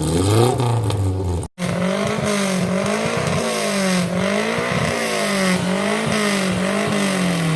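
Off-road 4x4 vehicle's engine revving, its pitch rising and falling over and over about every three-quarters of a second under load, with a brief break about a second and a half in.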